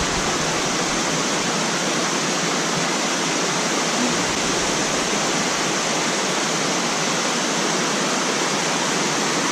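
Waterfall cascades with a steady, even rush of falling water.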